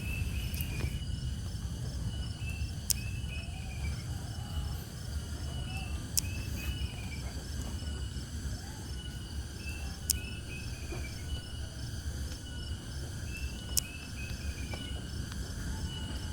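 Cicadas and other insects chirring steadily in several high tones, with short falling chirp phrases repeating every couple of seconds. Under them is a low rumble of breeze on the microphone, and a few sharp clicks sound through it.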